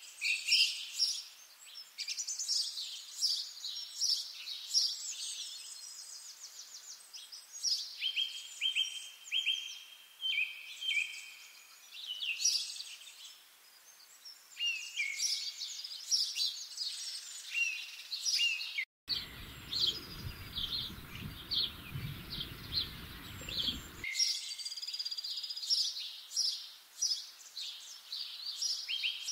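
Several songbirds singing at once in quick, overlapping chirps and trills. Just over halfway through, a low rumble runs beneath them for about five seconds.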